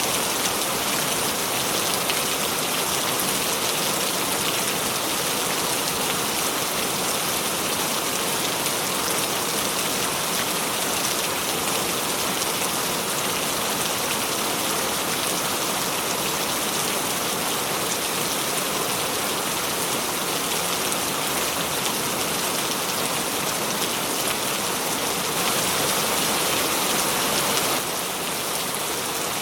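Steady rain falling, a dense, even hiss of drops. The level dips slightly near the end.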